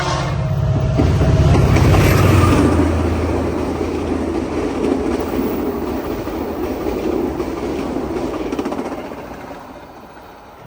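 VIA Rail passenger train passing close by at speed: the diesel locomotive's engine drone is loudest for the first two to three seconds, then the eight passenger cars rush past with their wheels clattering on the rails, fading near the end.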